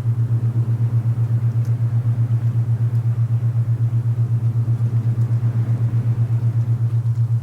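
A low, steady tone from alpha binaural beats, pulsing evenly about eight times a second, over a soft rushing wind.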